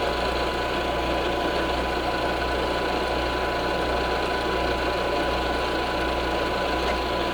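Milling machine running under power as its cutter finishes a pass across an aluminium part: a steady mechanical whir with a constant high whine, unchanging throughout.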